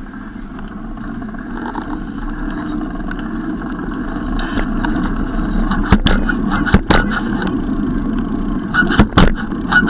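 Steady rumble of a bicycle ride on the road, slowly getting louder. From about six seconds in, a few sharp knocks and clicks cut through it.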